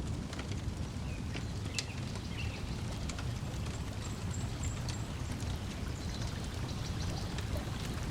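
Wood fire crackling with scattered sharp pops over a steady low wash of lake water lapping at the shore, with a few brief bird chirps.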